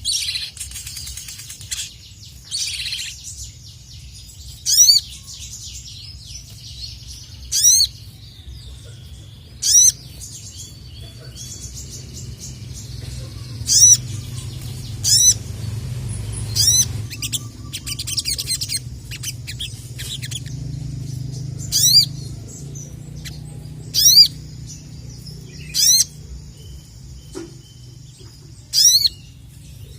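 Sogon (sogok ontong), a sunbird-type songbird, calling: short, sharp, high chirps, each a quick sweeping note, repeated every second or two.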